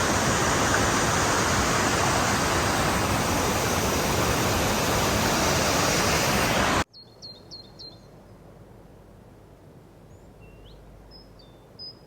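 Waterfall's steady rushing roar, which cuts off abruptly about seven seconds in. Then quiet woods with a bird giving short, high chirps in quick little runs.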